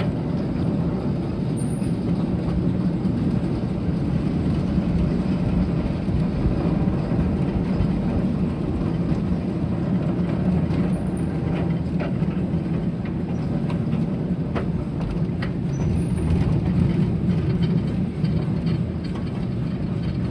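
Train cars rolling along the track, heard from on board: a steady low rumble of wheels on rail with a few sharp clicks and knocks in the second half.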